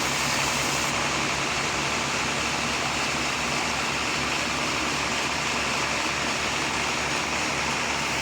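Sawmill machinery running steadily: a low engine hum under an even rushing noise.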